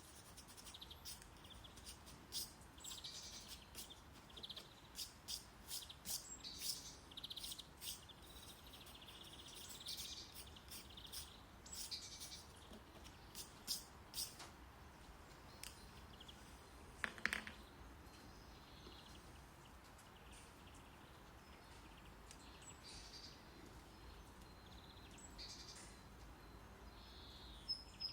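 Faint nature-sound background of birds chirping over a low, steady rumble of brown noise. Short, high chirps come thickly in the first half, and one louder call sounds about seventeen seconds in.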